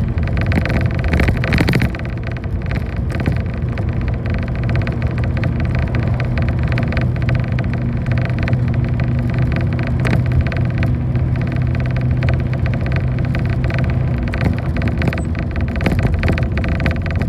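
Bus engine running under way, heard from inside the passenger cabin: a steady low engine drone that drops away near the end, with frequent rattles and knocks of the bus body over the road.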